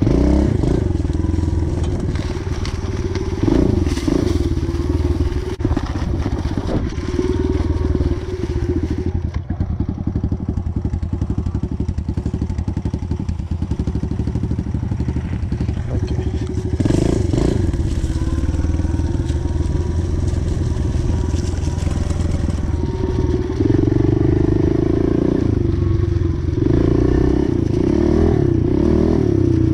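Pit bike engine running while being ridden, its pitch rising and falling with the throttle, with a few sharp knocks along the way.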